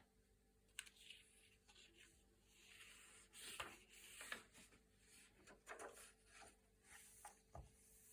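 Thick, glossy paper pages being turned: quiet rustling swishes and crisp little snaps of the sheets, several in a row, busiest in the middle.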